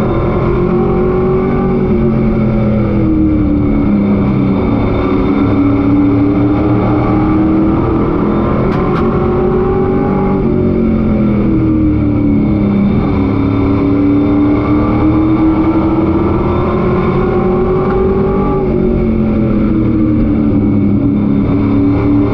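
Race truck's engine heard from on board at racing speed. Its pitch climbs steadily for several seconds and then falls back quickly, twice: revving out down the straights and lifting off for the corners. There is one short click about nine seconds in.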